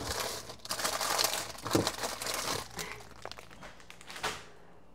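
Plastic food packaging crinkling and rustling as it is handled, with a few light knocks. The rustling dies down about three seconds in, and a knock comes near the end.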